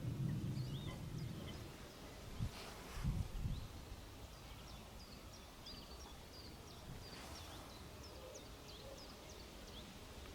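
Background birdsong: many short, high chirps and glides from several small birds, scattered through the whole stretch. A low rumble fills the first second or two, and a few dull knocks come about two and a half to three and a half seconds in.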